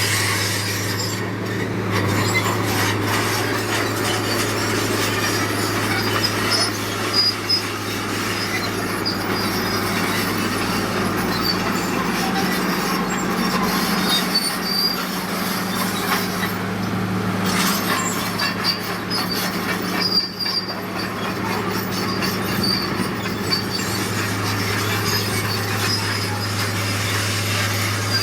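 Heavy diesel earthmoving machinery running steadily, with high-pitched metallic squealing and clanking over the engine's hum and a few sharper knocks.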